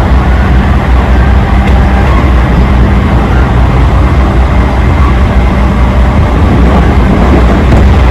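Electric train running at speed, heard from inside the carriage: a loud, steady rumble with a low hum.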